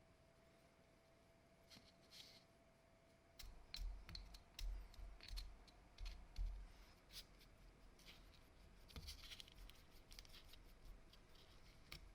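Faint workbench handling sounds: a scatter of light clicks and taps with some scraping and soft thuds, starting about three seconds in.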